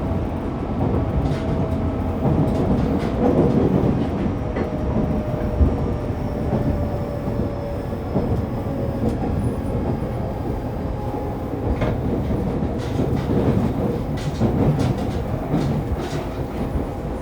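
Running noise inside a Fukuoka City Subway 2000 series car (trainset 23, Hitachi GTO-VVVF): a steady rumble of wheels on rail with occasional clicks of the wheels over rail joints.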